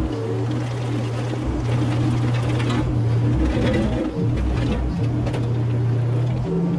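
Mini excavator's diesel engine running steadily, its hum shifting in pitch and load a few times as the hydraulics work, with scraping and clattering of debris about midway.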